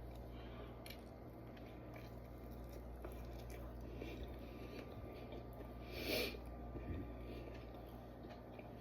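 A person chewing a bite of pulled chicken: faint soft wet chewing sounds, with one brief louder sound about six seconds in.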